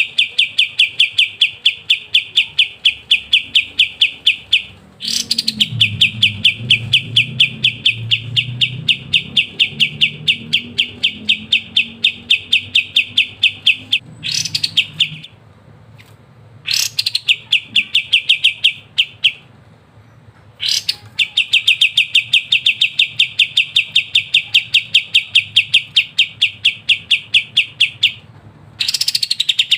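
Kapas tembak songbird singing its rapid 'ngebren' song: long runs of fast, evenly repeated chirps, each run opening with a rising note, broken by several short pauses.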